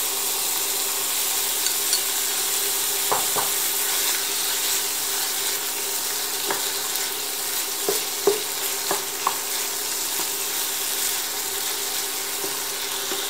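Minced pork and tomato wedges sizzling steadily in a frying pan, stirred with a wooden spatula that knocks and scrapes against the pan a few times.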